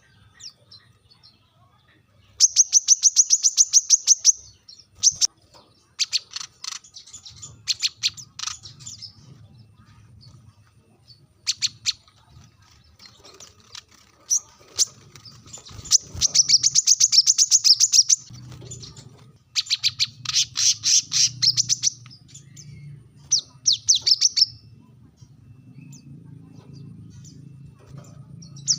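Brown-throated sunbird (kolibri kelapa) giving sharp, rapid trilled calls in repeated bursts of one to two seconds, with short pauses between them. This is the loud challenge call used to draw a rival bird into answering.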